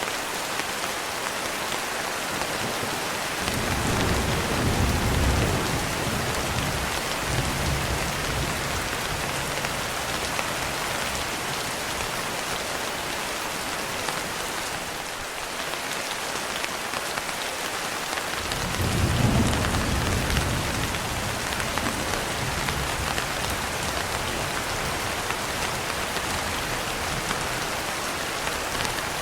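Steady heavy rain hitting a window pane, with two low rolls of thunder, one starting about three and a half seconds in and another a little past the middle, each rumbling for a few seconds.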